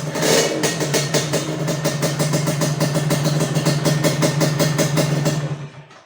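Yamaha Touch 125 scooter engine idling through an aftermarket stainless racing exhaust with a carbon silencer, giving a steady, rapid exhaust pulse. It swells briefly just after the start and fades out near the end.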